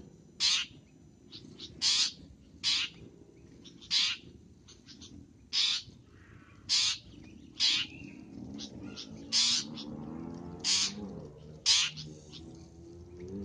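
Long-tailed shrike repeating short, harsh, rasping calls, about one a second.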